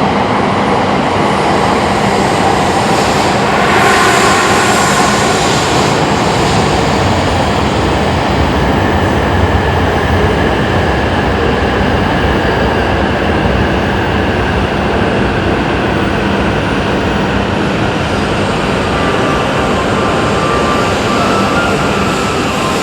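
Shinkansen bullet train moving alongside the platform: a loud, steady rush of train noise with a faint steady hum underneath, a little louder about four seconds in.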